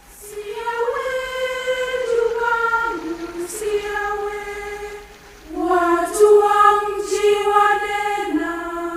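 A choir of high voices singing slow, sustained notes in two long phrases, with a brief dip between them about five seconds in.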